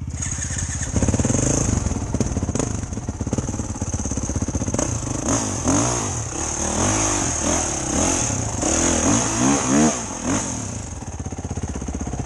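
Enduro dirt bike engine picking up from idle about a second in, then revved in repeated rising and falling bursts before dropping back to idle near the end.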